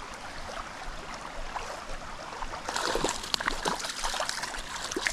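Small creek flowing steadily, with a stretch of sharp splashes from about halfway in as a hooked trout is brought in.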